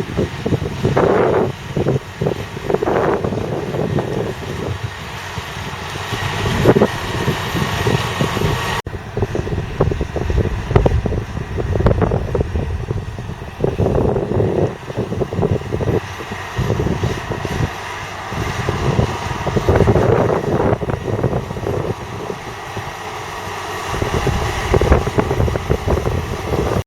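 Valtra T214's 7.4-litre six-cylinder diesel tractor engine running, with irregular gusts of wind buffeting the microphone. There is an abrupt cut about nine seconds in.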